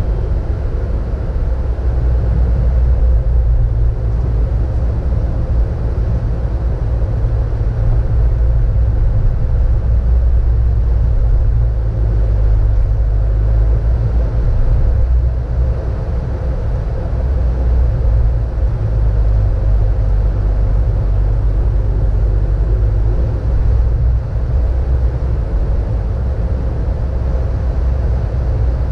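Car driving on the road, recorded from inside the car: a steady, loud low rumble of engine and tyre noise.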